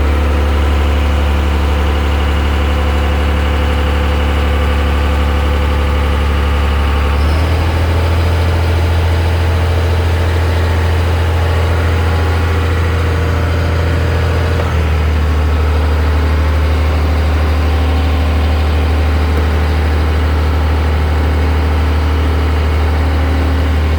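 Boat engine running steadily while cruising, a strong low hum whose note shifts slightly twice, about seven seconds in and again about halfway through.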